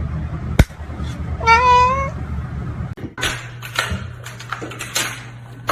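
A domestic cat meows once, a single slightly rising call about a second and a half in, with a sharp click just before it and some light knocks and rustling afterward.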